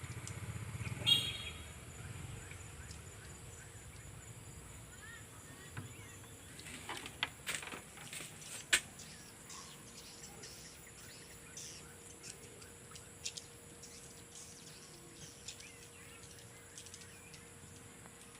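Swiftlets giving scattered short, sharp chirps, busiest in the middle and sparser toward the end. A low motor rumble fades out over the first couple of seconds, and one loud sharp sound comes about a second in.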